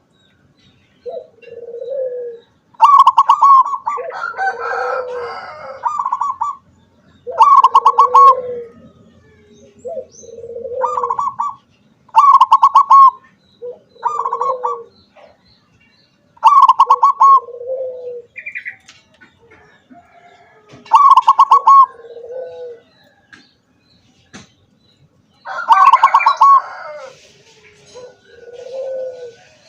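Zebra dove (perkutut) cooing in repeated phrases. Each phrase is a loud, rapid stuttering note followed by a softer, lower coo, and the phrases come every few seconds.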